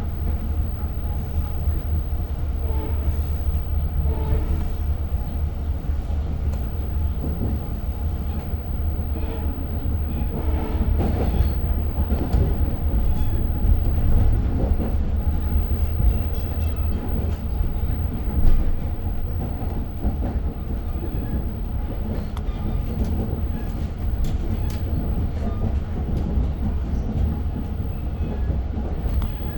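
Steady low rumble of a moving Long Island Rail Road diesel commuter train heard from inside the car, with scattered clicks and rattles from the wheels and car body and one sharper knock about eighteen seconds in.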